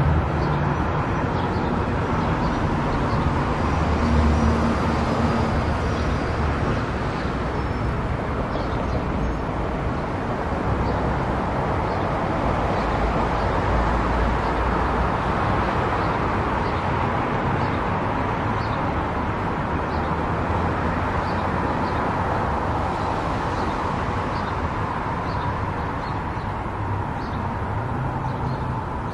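Steady road noise of a car cruising at highway speed: tyre and wind noise with a low rumble underneath, holding even throughout.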